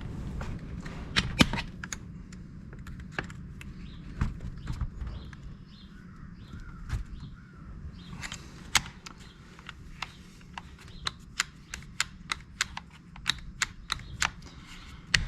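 Sharp, irregular clicks and taps of small parts and hand tools being handled, several a second in the second half, over a low steady hum.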